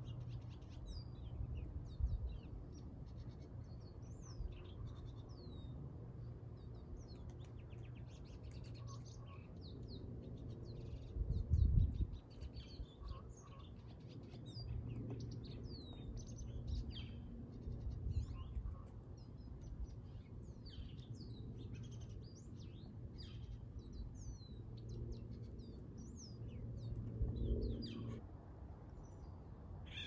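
Wild birds singing and calling in woodland, many short chirps and quick down-slurred whistles overlapping throughout, over a steady low rumble that swells louder about twelve seconds in.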